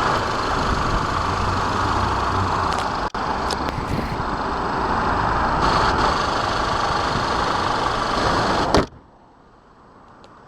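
2014 Audi A5's 2.0-litre TFSI turbocharged four-cylinder engine idling steadily, heard with the hood open. It breaks off for an instant about three seconds in and cuts off abruptly near the end.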